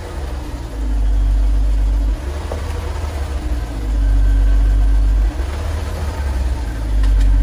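Jeep Grand Cherokee SRT's 6.4-litre HEMI V8 idling. A deep low rumble swells and drops every second or two.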